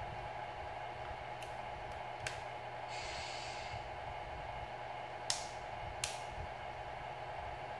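RC Scania R620 scale truck running with a steady hum, with a few sharp clicks and a short hiss about three seconds in.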